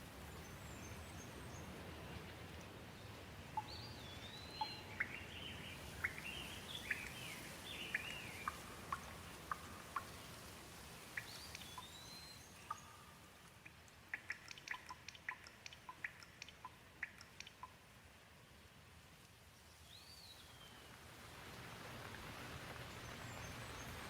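Light rain falling steadily while birds call over it: several short rising-and-falling whistles and a scatter of quick chirps, then a fast run of short sharp ticks through the middle. The rain thins midway and picks up again near the end.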